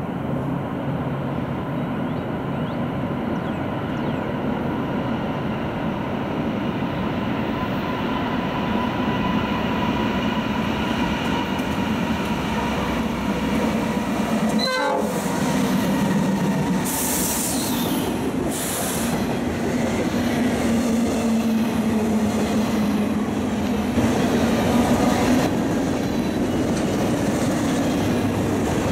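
Norfolk Southern freight train led by two GE C44-9W diesel locomotives approaching with its horn sounding, growing louder. About halfway through the locomotives pass and their engines hum low. Double-stack container cars then rumble by with wheels clacking over the rail joints.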